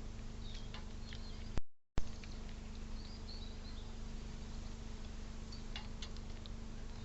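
Outdoor ambience at a bird feeder: scattered short bird chirps over a steady hiss and faint hum. About a second and a half in the sound cuts out completely for under half a second, with a click on each side, where one recorded clip joins the next.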